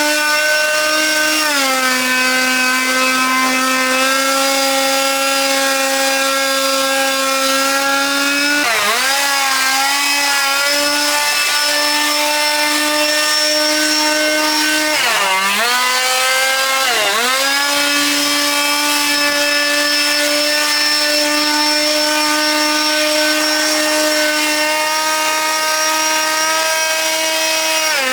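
Motorised cutting tool running at high speed with a steady whine. Its pitch sags and recovers a few times as the tool bites into the cutting: about 1.5 seconds in, around 9 seconds, twice between 15 and 17 seconds, and at the very end.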